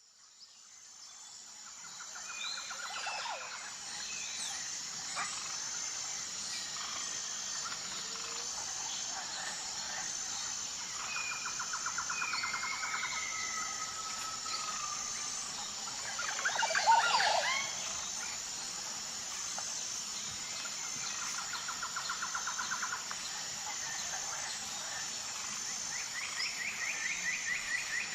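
Outdoor nature ambience: birds calling and trilling over a steady, high-pitched insect drone. It fades in over the first couple of seconds, and the loudest burst of calls comes about 17 seconds in.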